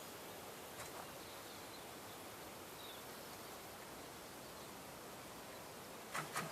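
Faint, steady outdoor background hiss with no engine running. There are two light clicks about a second in and two sharper knocks a fraction of a second apart near the end.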